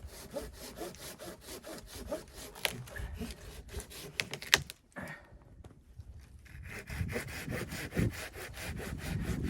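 Wood being sawn by hand in quick, even back-and-forth strokes, with a couple of sharp knocks among them. The sawing stops about halfway, and after a short lull a rougher rustling and scraping begins.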